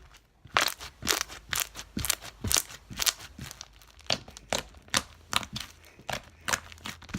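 Slime with foam beads being squeezed and worked by hand for ASMR, giving sharp irregular clicks and pops, two or three a second, starting about half a second in.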